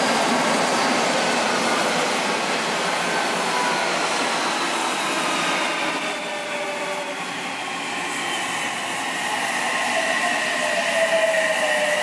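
Silver commuter electric train running past on the rails, a steady rush of wheel and track noise with several motor whines that fall slowly in pitch, growing clearer in the last few seconds.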